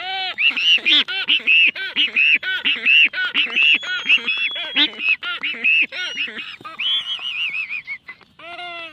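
Black-footed albatrosses calling in courtship display: a fast run of short honking notes that rise and fall, about four a second, with sharp clicks mixed in. The run breaks off briefly near the end and then starts again.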